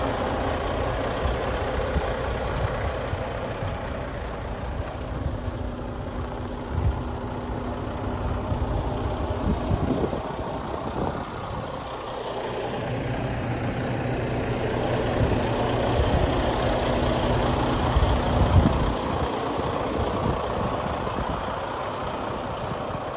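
Detroit DD16 inline-six diesel engine of a Freightliner 122SD truck running, its steady note changing about ten seconds in and then growing louder for a while.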